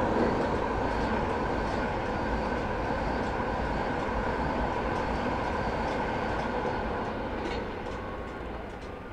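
InterCity 225 electric express train passing at speed, a steady rumble of wheels on rail that fades over the last couple of seconds as it moves away.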